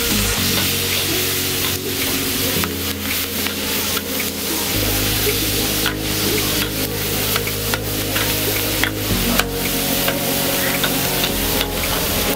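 Food sizzling and frying in a large paella pan, with a metal utensil clicking and scraping against the pan as it is stirred. Background music with sustained low notes plays underneath.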